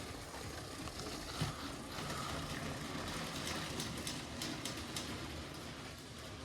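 LEGO train running around a plastic track layout: a steady rumble with irregular sharp clicks, and one louder knock about one and a half seconds in.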